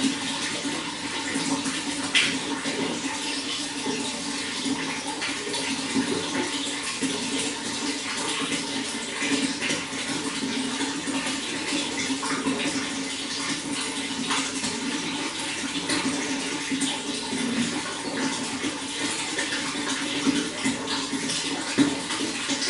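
Running water flowing steadily, a constant rush with small splashes and drips scattered through it.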